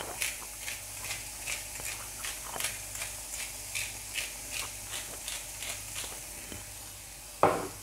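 A spice grinder of mixed peppercorns being twisted over the frying pan, a crisp grinding crunch about two to three times a second, over a faint sizzle of mushrooms frying in oil. A short louder burst comes near the end.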